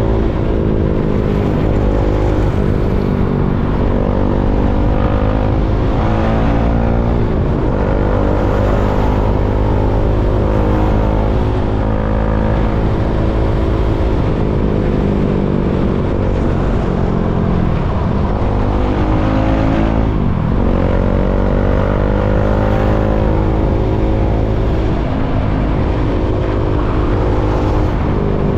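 KTM Duke 390's single-cylinder engine running on the road. Its pitch climbs under acceleration and drops at gear changes and roll-offs, again and again, over a steady low rumble.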